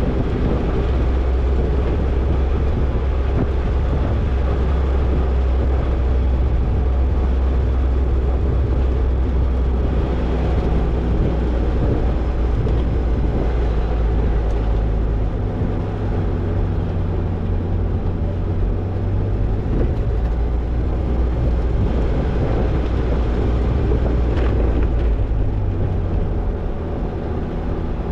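Toyota Tercel 4WD wagon driving on a dirt trail, engine running steadily under load with road and tyre noise. The engine note steps up about halfway through.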